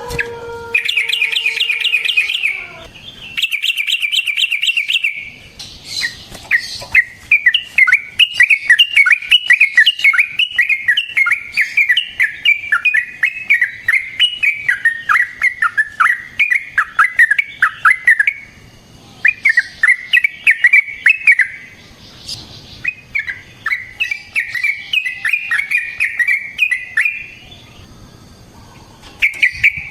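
Yellow-vented bulbul (trucukan) singing in long, rapid runs of chattering notes. There are several runs with short pauses between them, and the longest lasts about twelve seconds.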